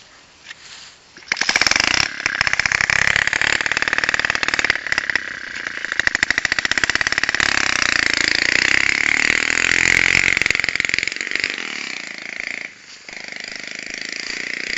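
Small single-cylinder four-stroke 72cc Alpha moped-type motorcycle engine starting about a second in and then running, its revs rising and falling, with a brief dip near the end before it picks up again.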